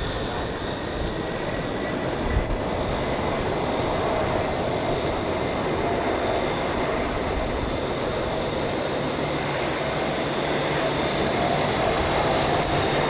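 Antonov An-124-100 Ruslan's four D-18T turbofan engines running at takeoff power: a steady jet roar with faint whining tones in it, growing slowly louder.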